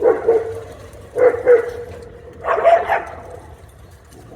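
Dog barking: one bark, a quick pair of barks about a second later, then a longer bark near the three-second mark.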